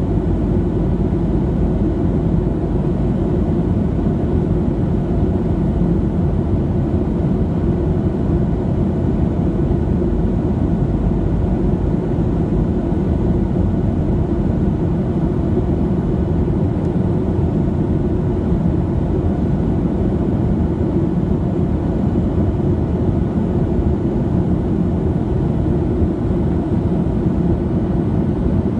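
Steady, low-pitched cabin noise of a Boeing 737-700 in motion: its CFM56-7B engines and the airflow, heard from inside the passenger cabin.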